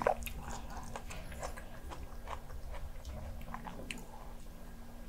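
Close-miked chewing of a mouthful of Spam kimchi jjigae: a run of short, wet mouth clicks and smacks, loudest right at the start.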